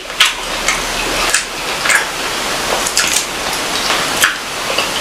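Close-miked eating sounds: wet chewing and mouth smacks, with irregular sharp clicks over a steady hiss.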